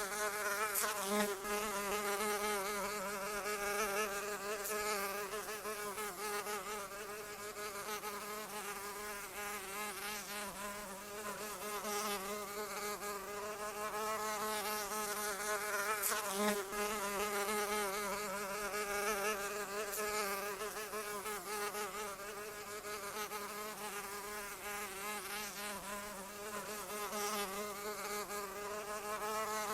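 Flying insect's wings buzzing in one continuous drone, its pitch wavering constantly and its loudness swelling and easing a little.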